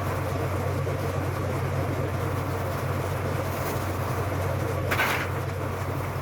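A steady low mechanical hum with constant noise over it, and a brief higher-pitched sound about five seconds in.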